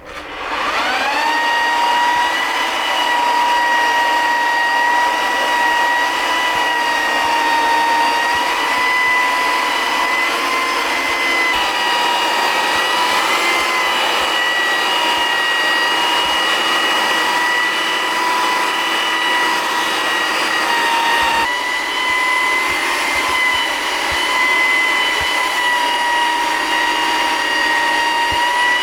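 An electric motor spinning up to speed within the first second and then running with a steady high whine. The pitch shifts slightly near the end.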